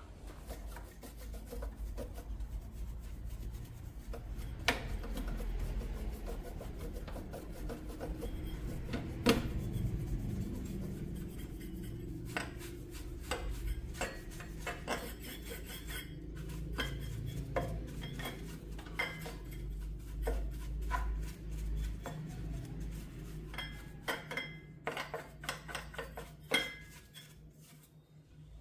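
Scraping and rubbing with many scattered small clicks and knocks from hands and tools working on a subwoofer, over a steady low hum.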